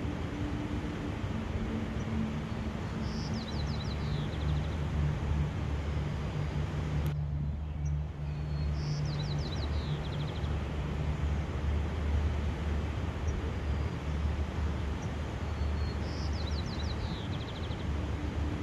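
Steady rushing outdoor background noise with a low hum under it. A small songbird repeats a short high trilled phrase three times, about every five to six seconds.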